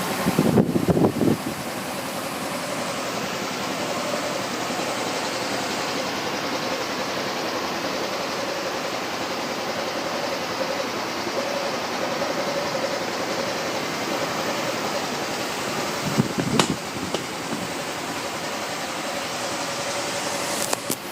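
Yamaha Axis Z 125cc single-cylinder four-stroke scooter engine idling steadily. A short louder rumble comes just after the start and again about three-quarters of the way through.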